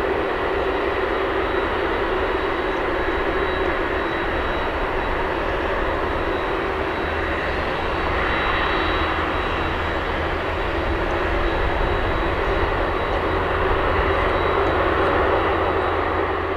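Jet airliner engines running steadily: an even rushing noise with a steady high whine, growing a little louder near the end.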